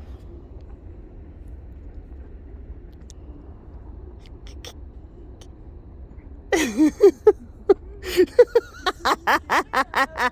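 Faint low background rumble, then about six and a half seconds in a person breaks into loud laughter, quick rhythmic bursts of about four or five a second.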